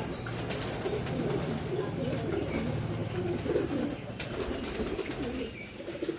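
Several domestic pigeons cooing at once, their low wavering coos overlapping continuously.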